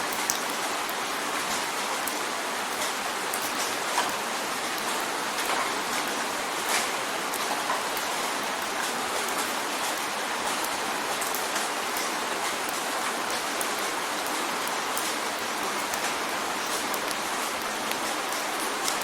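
Steady rain drumming on a window pane, a dense hiss with many separate drop ticks and a few louder drops.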